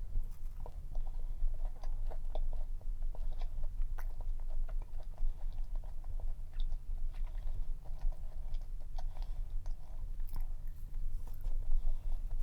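Close-miked chewing of a fudgy cream cheese cup cookie: a steady run of small wet clicks and crackles.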